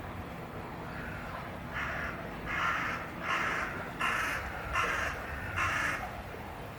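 A bird giving a run of six harsh calls, about one every three-quarters of a second, over a steady low background hum.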